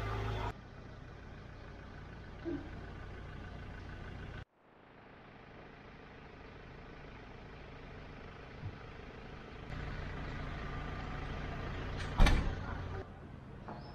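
Vehicle engine running steadily, heard in several short clips, with one loud sharp knock near the end.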